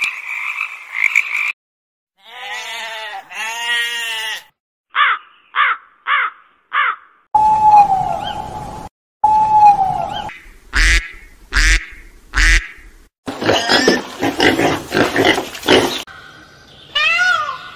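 A series of different animal calls, one kind after another with short gaps between them: pitched calls, a run of four short calls, two falling calls, three sharp strikes and a noisy stretch, ending in rising-and-falling calls.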